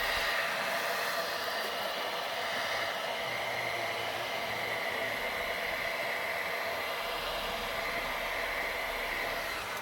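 Steady rushing hiss of a heating tool playing on the M35A2 front axle's outer seal carrier, heating it so that thermal expansion frees a seized inner oil seal. The sound cuts off abruptly at the very end.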